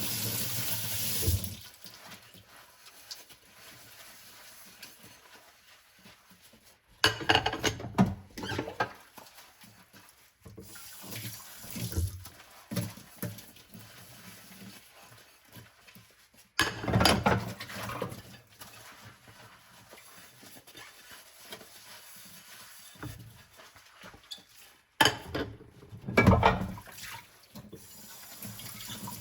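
Dishes being washed by hand in a kitchen sink. Water runs from the tap for a moment at the start, then comes quieter handling, with three louder stretches of clattering and splashing about a quarter of the way in, halfway, and near the end.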